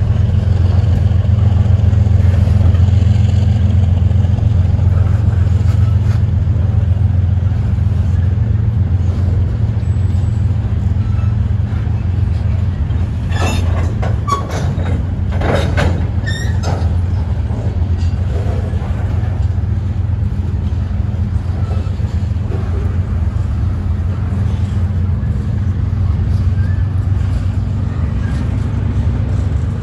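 Freight train rolling past with a steady low rumble, and a short cluster of sharp metallic clanks about halfway through.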